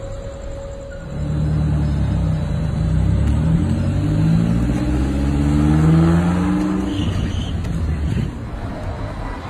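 A car engine accelerating: it comes in about a second in, climbs steadily in pitch for several seconds, then drops away near the end.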